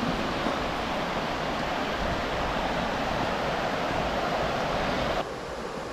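Steady rush of flowing river water, dropping suddenly to a quieter rush about five seconds in.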